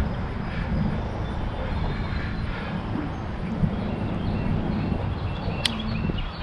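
Wind rumbling on the microphone of a moving bicycle, with birds chirping faintly and a single sharp click about five and a half seconds in.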